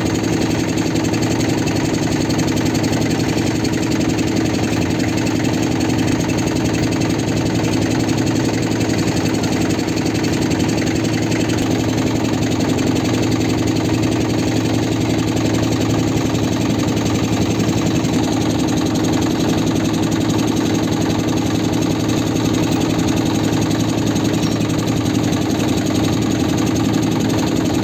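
Motorboat engine running steadily, a loud, even drone with no change in speed.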